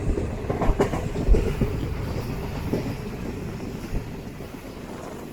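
DEMU diesel multiple-unit train running along the track, heard from on board, with the wheels knocking over rail joints: a cluster of sharp clunks in the first two seconds and another about four seconds in. The running noise gradually grows quieter.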